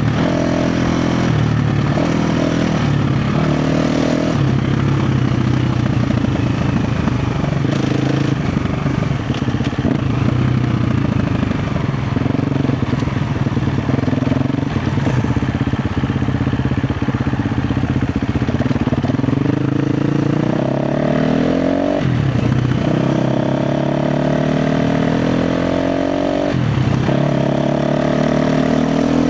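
KTM 350 XC-F's single-cylinder four-stroke engine running under varying throttle. Near the end it revs up in rising sweeps, drops sharply twice and climbs again.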